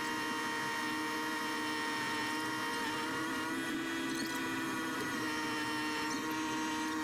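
Steady electrical hum and whine made of several fixed tones, without the low rumble of the tractor engine: the sound of a faulty microphone signal rather than the tractor itself.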